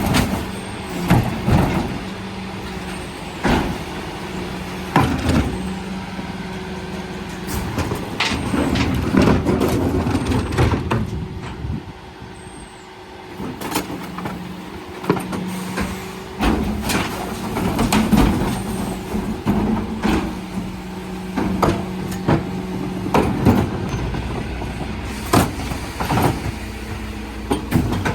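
Mercedes Econic refuse truck running with a steady drone, with repeated knocks and bangs as wheelie bins are lifted and emptied by its bin lifters. The drone drops away for a couple of seconds about twelve seconds in, then returns.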